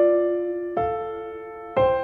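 Slow background piano music: sustained chords struck about once a second, each left to ring and fade.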